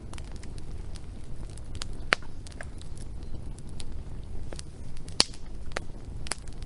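Wood fire crackling, with scattered sharp pops, three of them louder at about two, five and six seconds in, over a steady low rumble.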